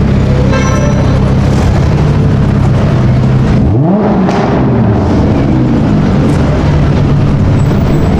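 Car engine rumbling steadily, then revving up sharply about three and a half seconds in, its pitch rising quickly and falling away again.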